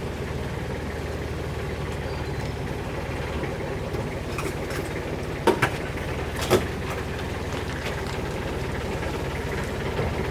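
A steady, low mechanical hum of a running engine or motor, with three sharp knocks about halfway through.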